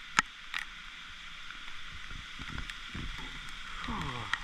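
Steady rain falling through tree leaves, with a few sharp drops hitting close by in the first second. A short falling tone comes in near the end.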